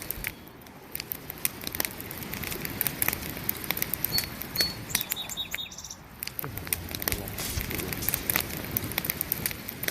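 Wood campfire crackling, with dense, irregular sharp pops and snaps. Two short high chirps come about four seconds in.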